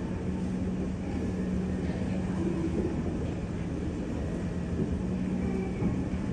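Freight train of empty container wagons approaching from a distance: a steady low rumble with a held low hum.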